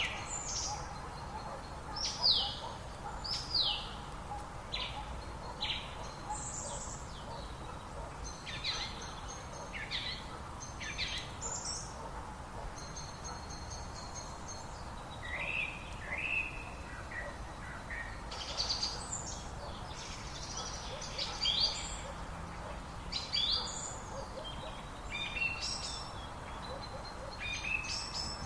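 Several birds singing and calling, a busy run of short chirps, trills and falling whistled notes, over a steady background of flowing river water.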